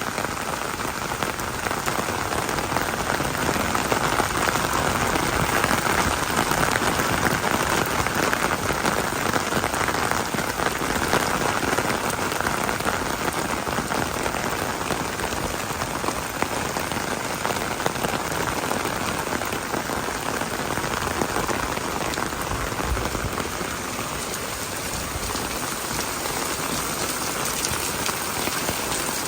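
Steady rain falling, an even hiss of many drops, a little stronger in the first half.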